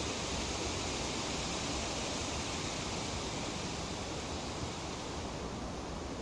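Tree leaves rustling in a light breeze: a steady, even hiss with no separate gusts or leaf flutters standing out.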